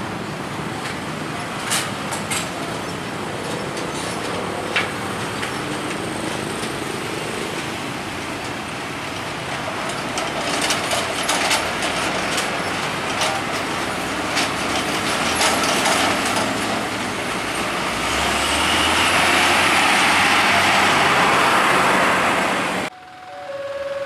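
Train running past at speed: steady rumble of wheels on the rails with scattered sharp clacks, growing louder to its loudest near the end, then cut off suddenly.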